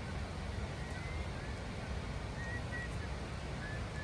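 Steady wind rumble on the microphone, with a few faint, high, short bird chirps scattered through.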